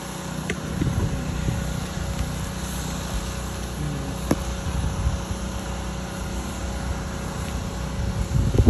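Machinery running steadily with a constant hum over low rumble. A few sharp clicks come through, and there is a burst of low thumps near the end.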